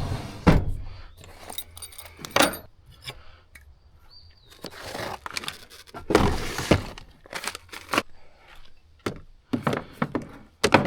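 Camp gear being handled and put away: a run of clinks, clatters and knocks with some rustling in between.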